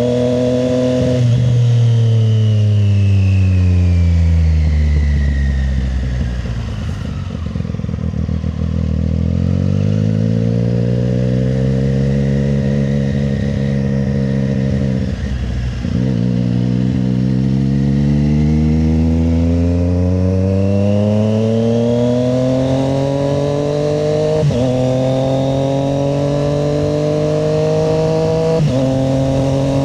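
Triumph Street Triple 765 RS inline three-cylinder engine on the move: the revs fall steadily for several seconds as it slows, hold low for a few seconds, then climb again as it accelerates, with two quick upshifts near the end.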